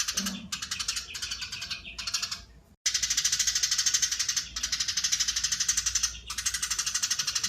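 Eurasian tree sparrow giving its long, rapid, closely packed chattering call (crecetan) in several unbroken runs. The runs are separated by short gaps, with a brief silent break about two and a half seconds in.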